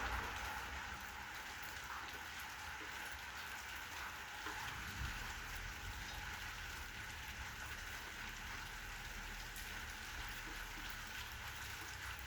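Steady rain falling, an even, continuous patter of drops.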